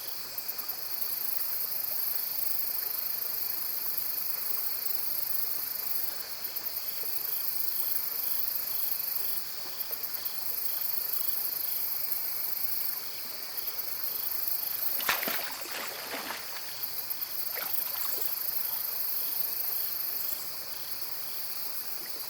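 Chorus of crickets and other insects singing steadily in an autumn forest, with a pulsing call repeating about twice a second and shrill trills coming and going. A brief louder noise breaks in about fifteen seconds in.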